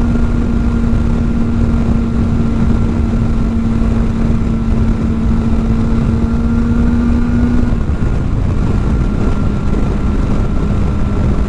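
Kawasaki ZX-4R's inline-four with an aftermarket exhaust, running at steady revs while riding, with wind rushing over the microphone. The engine note drops slightly about eight seconds in as the revs ease off.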